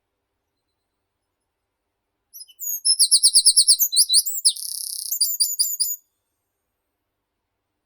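A songbird sings one high song phrase lasting about three and a half seconds: a fast trill of repeated notes, a short buzzy note, then a few quick closing notes.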